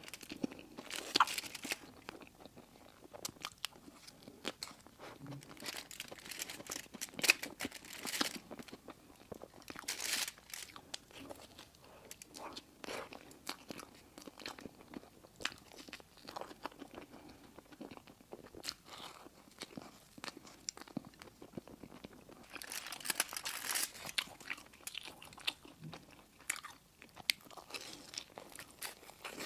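Close-up crunching and chewing of crispy sweets: irregular crackly bites and chews, with louder bursts of crunching about a second in, around seven and ten seconds, and again near the end.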